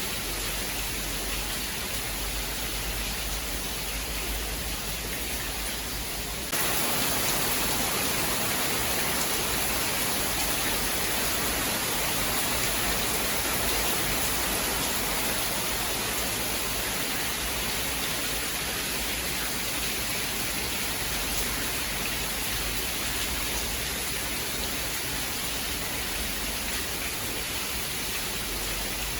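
Steady heavy rain falling as an even hiss. About six seconds in it suddenly turns louder and brighter and holds there.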